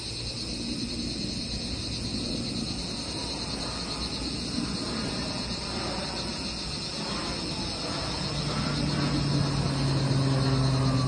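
Insects droning steadily and high, with a low engine hum that comes in after about eight seconds and grows louder.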